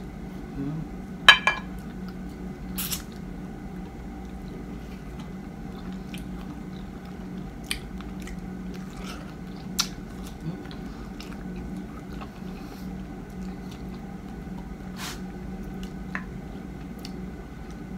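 Close-up mouth sounds of a person biting and chewing soft, peeled small mango flesh, with a few short wet clicks, the sharpest about a second and a half in, over a steady background hum.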